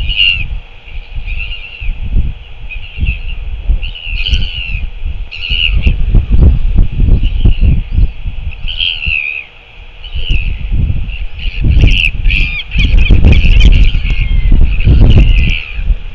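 Repeated short bird calls, coming more thickly after about twelve seconds, over strong gusts of wind buffeting the microphone.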